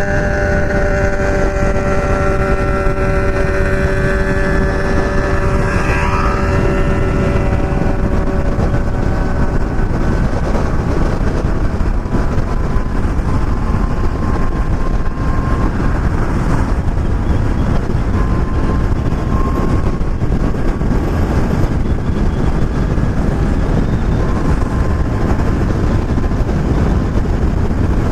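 Motorcycle riding at steady speed, heard on board: a steady engine note during the first several seconds, then mostly wind rushing over the microphone.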